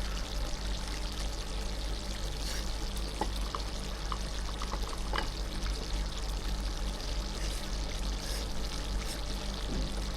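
Chicken-bone stew simmering in an iron pot: a steady bubbling hiss over a low, even hum, with a few faint clicks.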